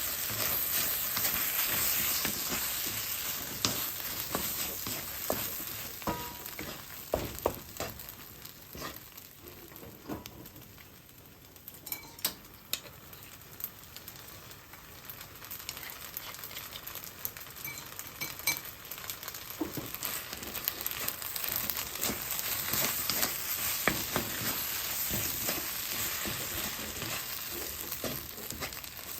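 Fried rice sizzling in a frying pan as it is stir-fried, with frequent sharp clicks and scrapes of the spatula against the pan. The sizzle drops lower about a third of the way in, then builds back up toward the end.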